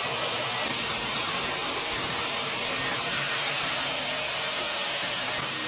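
Vacuum running steadily, sucking lint out of a clothes dryer.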